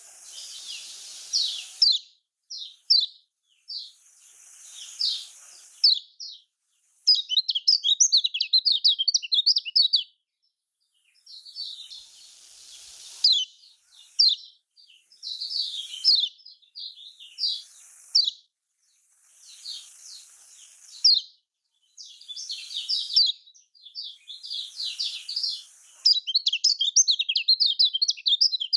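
A kecial kuning (a yellow white-eye) singing in bouts of fast, high chirping phrases broken by short pauses. It runs into dense, rapid twittering trills about a quarter of the way in and again near the end.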